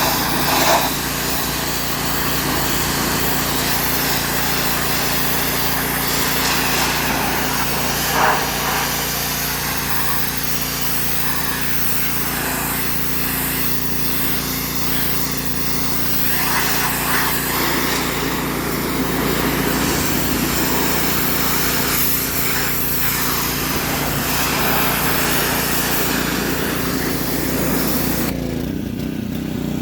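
Abrasive blasting of a truck's old paint: a steady rushing hiss from the blast nozzle over an engine running steadily. A little before the end the blasting stops and the engine keeps running.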